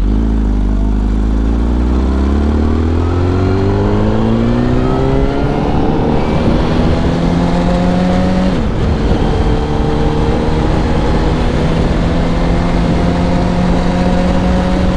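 Yamaha R1's inline-four engine pulling under acceleration: its pitch climbs steadily for about eight seconds, drops sharply at an upshift, then holds and rises slowly. A steady rush of wind and road noise runs underneath.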